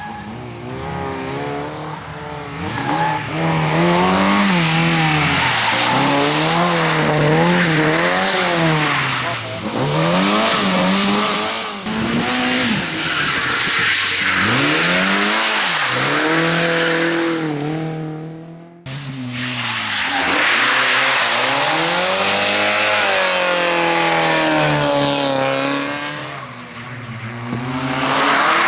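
Competition car's engine driven hard, revving up and falling away again and again through gear changes and corners, with loud tyre noise. The sound breaks off abruptly about two-thirds of the way through and resumes at full level.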